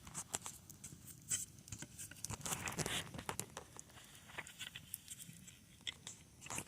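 Wood campfire crackling faintly, with irregular sharp pops and snaps.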